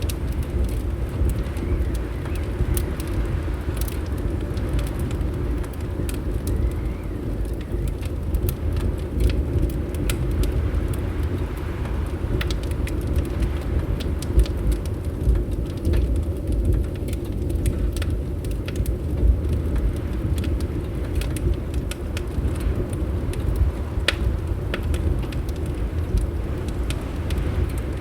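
Fireplace fire crackling, with scattered sharp pops and snaps over a steady low rumble of wind.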